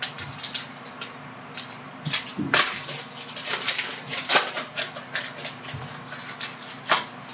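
Panini Prizm trading-card pack wrappers being torn open and crinkled, with cards handled: a run of irregular crackling clicks.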